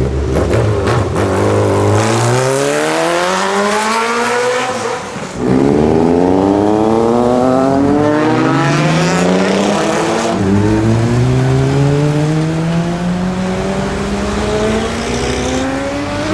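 Sport motorcycle engine accelerating hard, its pitch rising steadily through three gears with two quick upshifts, about five seconds and ten seconds in.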